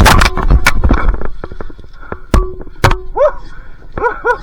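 A dog barking: short, arching barks, one about three seconds in and a quick run of three near the end. Before them, in the first second, comes a loud rustling noise with sharp clicks.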